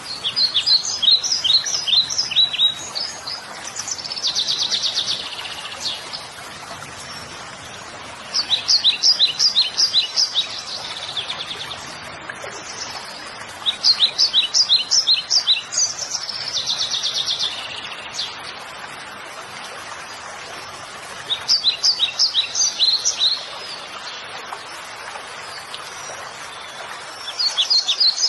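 A songbird singing in repeated phrases of quick, high chirping notes, each phrase lasting about two seconds and coming back every few seconds, over a steady background hiss.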